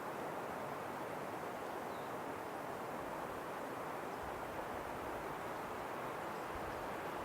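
Steady wind, an even rushing hiss with no gusts or breaks.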